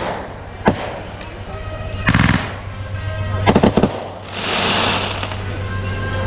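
Consumer fireworks going off: a single sharp bang just under a second in, two quick runs of rapid crackling about two and three and a half seconds in, then a hissing fizz near the end.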